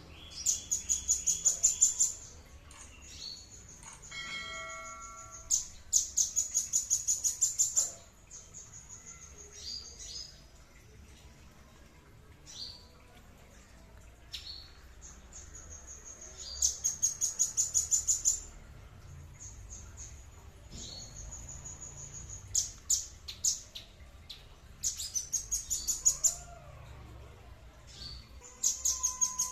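A songbird singing: bursts of rapid, high trilled notes, each burst about two seconds long, coming several times, with short down-slurred whistled notes in between.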